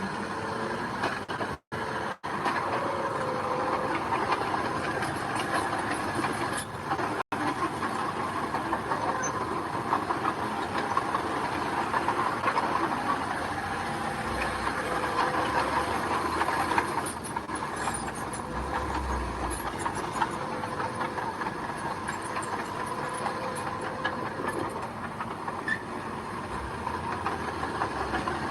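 Mini bulldozer's diesel engine running steadily with the clatter of its steel tracks as it works gravel. The sound cuts out for an instant three times in the first few seconds.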